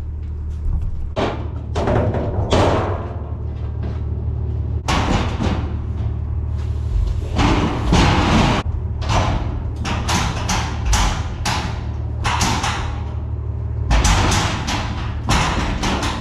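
A run of irregular thumps, knocks and scraping noises, a dozen or so, over a steady low hum.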